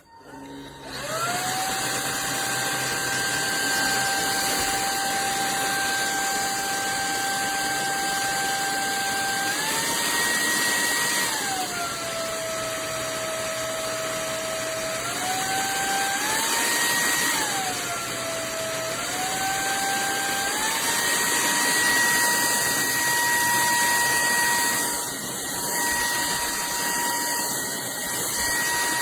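SKIWEC cordless stick vacuum's motor spinning up and running with a high whine and rushing air. Its pitch steps up and down between speeds several times, then holds at the higher speed.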